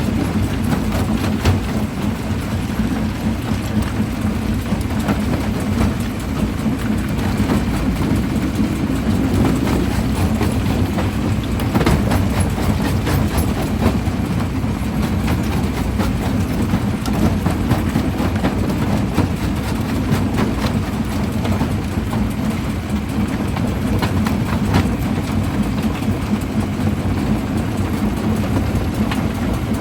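Primary jaw crusher running under load: a steady heavy low rumble, with irregular knocks and cracks of rock breaking between the jaws.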